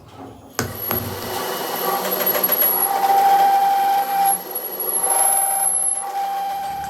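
A power tool or machine working metal: a steady, noisy whine with a held tone and a faint high ring. It starts sharply about half a second in and fades a little near the end.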